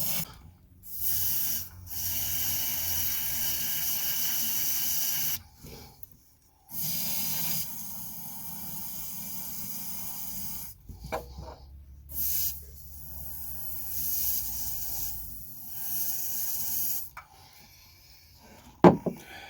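Rushing air hissing in several long bursts of a few seconds each, stopping and starting, with a sharp knock near the end.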